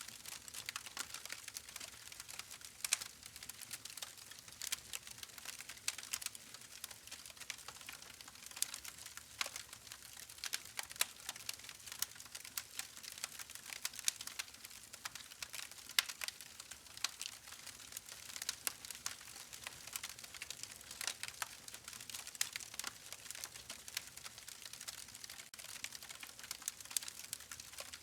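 Campfire crackling: a dense, irregular run of small sharp snaps and pops over a soft hiss, with a few louder pops here and there.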